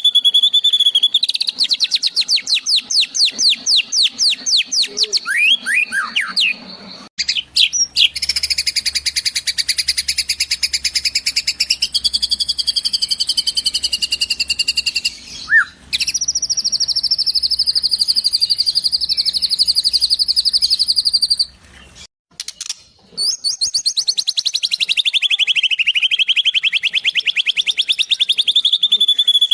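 Eurasian tree sparrow and kingfisher calls played as a filler-song track for training songbirds: fast, high-pitched repeated trills and chirps, spliced in segments with two short breaks.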